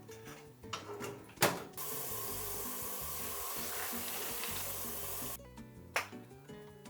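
Kitchen tap turned on with a click, water running steadily into the sink for about four seconds, then shut off abruptly; another click follows. Soft background music underneath.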